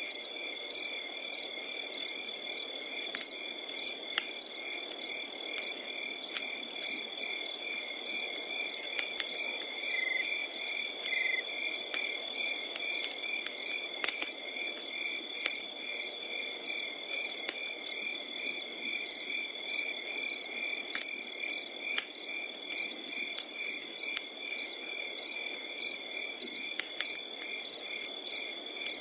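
Crickets chirping in a steady rhythm, about two chirps a second over a continuous high trill, with a campfire crackling underneath: a low wood-fire rush and scattered sharp pops of burning wood.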